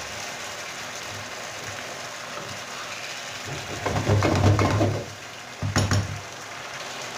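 Chicken pieces and onion-spice masala sizzling in oil in a frying pan, with a wooden spatula stirring and scraping through them: louder stirring about halfway through and again briefly near the end. This is the bhuna stage, the meat being fried in the masala and kept moving so it doesn't stick to the bottom.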